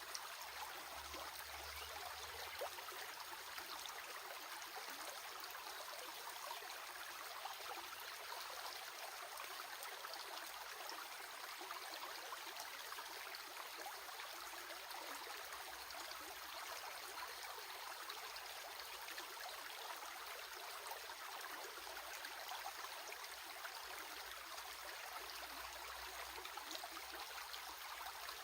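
Water running steadily in a stream: an even, continuous rushing with no breaks.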